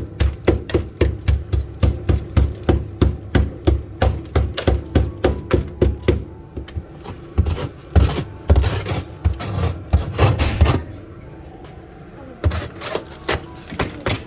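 Small metal pick stabbing at ice built up inside a freezer, with rapid, even strikes about three or four a second, then slower, uneven strikes, a short pause about eleven seconds in, and a few more strikes near the end. The ice builds up because the freezer's door seal is bad.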